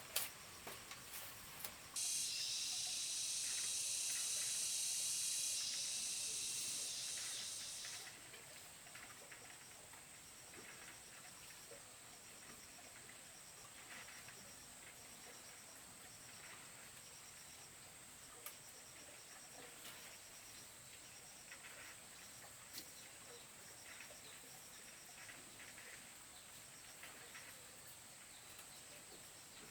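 Insects sounding: a loud, high, hissing buzz starts suddenly about two seconds in and fades out after about six seconds. A steady thin high insect drone with faint, regular pulsed chirping follows, with scattered light clicks.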